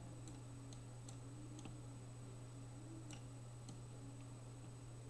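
Faint, irregular light clicks of a pen or marker on paper while a diagram is drawn, over a steady low electrical hum.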